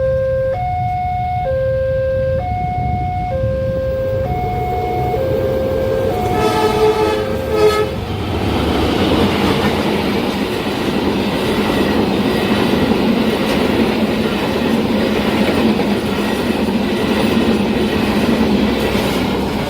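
A level-crossing warning alarm alternates between two tones, about one per second. A train horn blows about six seconds in for roughly two seconds. Then a train passes with a loud, steady rumble of wheels on rails, drowning out the alarm.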